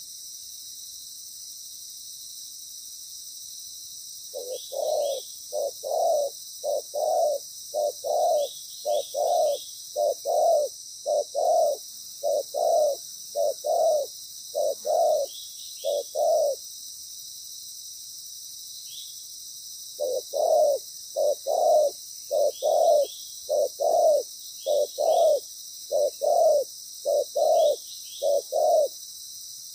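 Spotted dove cooing in long, regular runs of short, low coos, about one to one and a half a second. There are two series with a pause of a few seconds between them.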